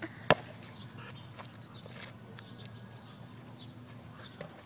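Songbirds chirping in short, arched high notes about twice a second, with one sharp knock about a third of a second in: a basketball bouncing on the asphalt court.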